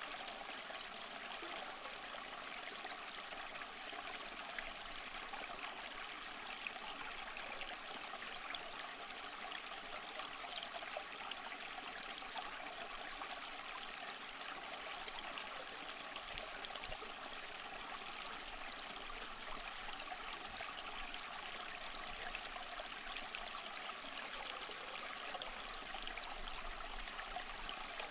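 A small stream running: steady, even water noise with fine trickling and bubbling.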